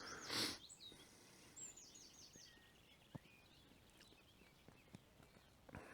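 Faint songbird calling: a quick run of high chirps stepping down in pitch in the first couple of seconds, then near silence with a few faint ticks.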